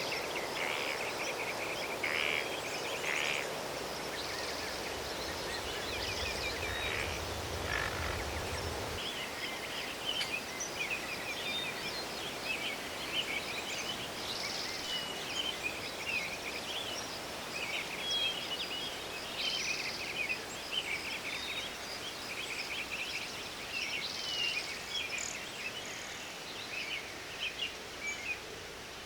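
Many small birds chirping and calling over a steady background hiss, with a low rumble for a few seconds about six seconds in.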